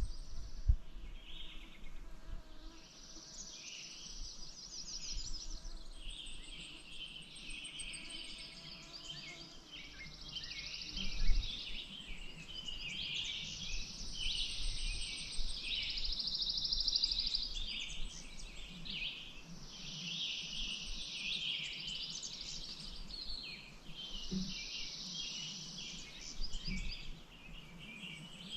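Several birds singing at once: overlapping trills and chirps, some fast and buzzy, with hardly a gap. There is a low rumble at times and a brief low thump about eleven seconds in.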